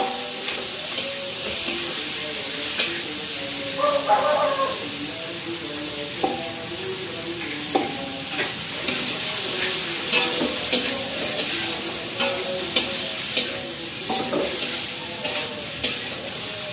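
Tofu sizzling as it fries in oil in a wok, with a spatula scraping and tapping against the wok every second or so as it is stirred.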